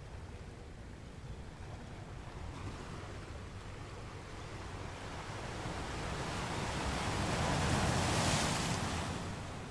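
Ocean surf washing on a beach: a steady hiss of water, with one wave swelling from about halfway through, breaking loudest near the end and then subsiding.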